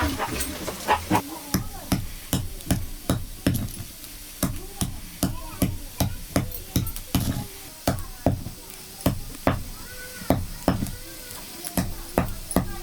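Steady run of sharp knocks, about two or three a second, like repeated chopping or pounding, with faint voices between the strokes.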